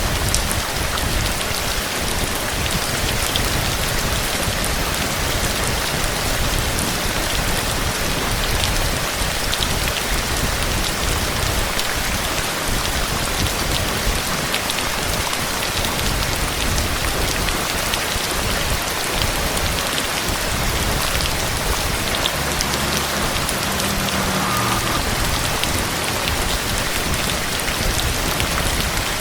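Heavy rain falling steadily, with dense drops pattering on a surface.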